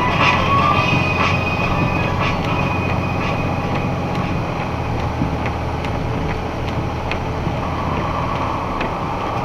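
Box truck rolling along: a steady low engine and road rumble heard inside the cab, with the tail of music from the stereo fading out in the first couple of seconds.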